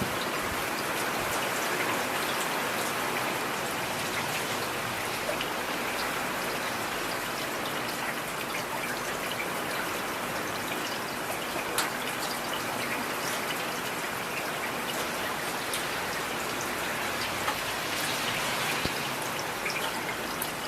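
Heavy rain falling steadily, an even hiss with scattered sharper drop ticks.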